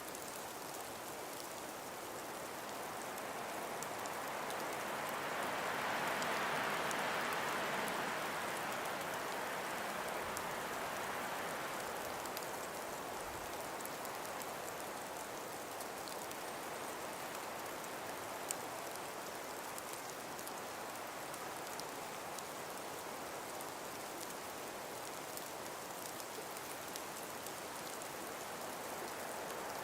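Breeze hissing through frost-covered forest trees. It swells into a gust about five seconds in and eases back after about ten seconds, with scattered faint ticks.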